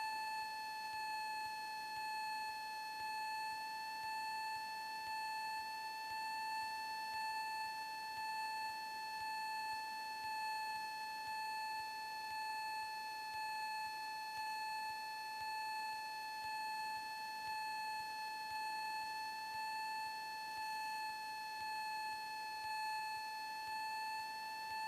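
A steady high-pitched electrical whine with overtones on the Cessna 172's intercom/headset audio feed, swelling slightly in level about once a second.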